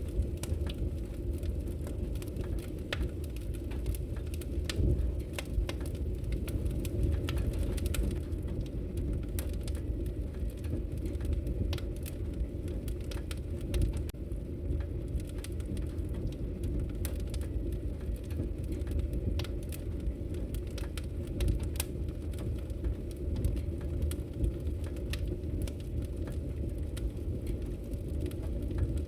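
Wood logs burning in a fireplace, crackling with frequent irregular sharp pops over a steady low rumble.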